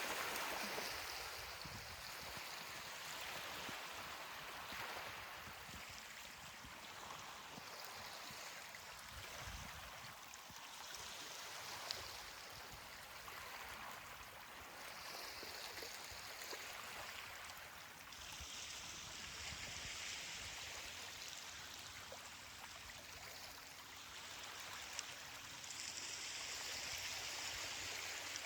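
Ocean surf washing onto a beach: a faint, even hiss of water that swells and eases every few seconds as waves break and run up.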